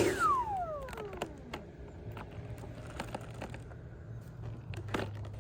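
Electric ducted fan of an RC jet spooling down after a short throttle blip, its whine falling in pitch over about two seconds. A low hum follows, with scattered clicks and a knock near the end.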